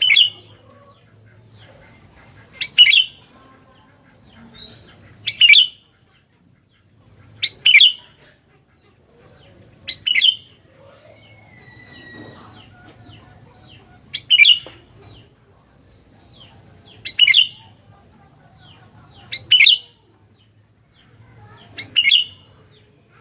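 Sooty-headed bulbul (kutilang) calling loudly over and over: a sharp, quick two-note call about every two and a half seconds, nine times. A faint thin whistle is heard briefly in the middle.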